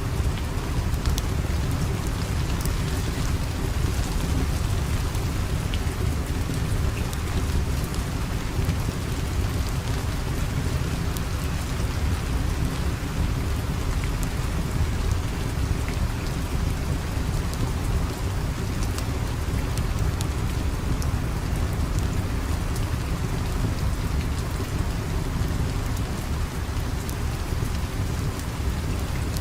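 Steady heavy rain with a deep low rumble, sprinkled with faint sharp ticks.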